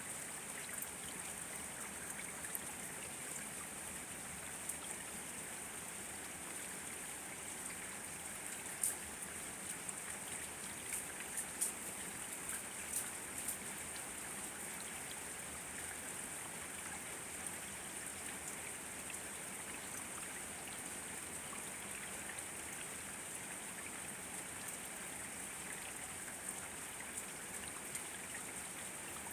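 Steady rain hiss with a few sharp, louder drops landing close by, clustered between about nine and fourteen seconds in.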